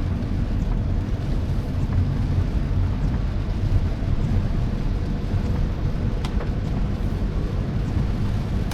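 Steady low rumble of a car driving, tyre and engine noise heard from inside the cabin, on rain-wet roads.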